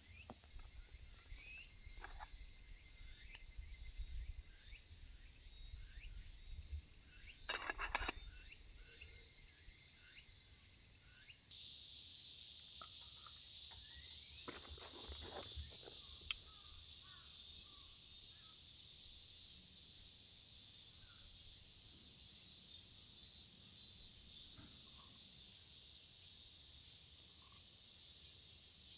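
Insects singing steadily in a high-pitched chorus, a louder band joining about twelve seconds in, with scattered bird chirps and a few soft knocks in the first half.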